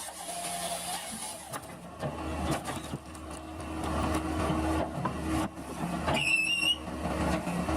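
The engine and hydraulics of a tracked firewood processor running steadily, with scattered knocks, and a short wavering high squeal a little after six seconds in.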